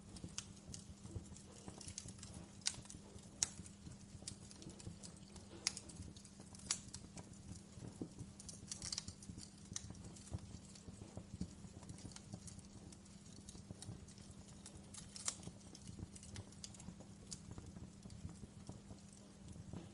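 Wood fire crackling in a fireplace: irregular sharp pops and snaps at uneven intervals over a low, steady hum.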